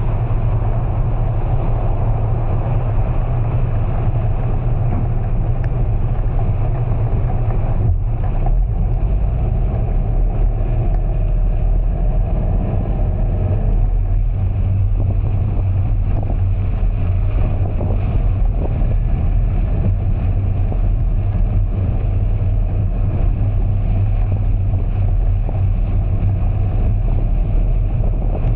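A vehicle driving through heavy rain on wet streets: a steady low rumble under an even wash of noise.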